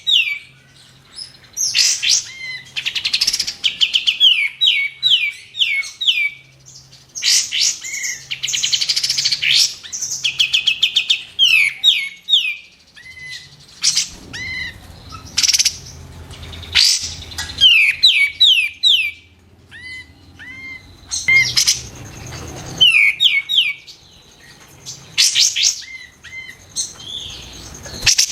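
Olive-winged bulbul (kapas tembak) singing: runs of quick falling whistled notes, repeated again and again, broken by loud sharp calls.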